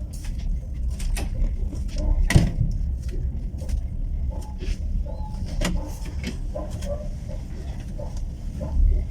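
Passenger railway carriage running along the track: a steady low rumble with frequent clicks and rattles. The loudest knock comes about two and a half seconds in.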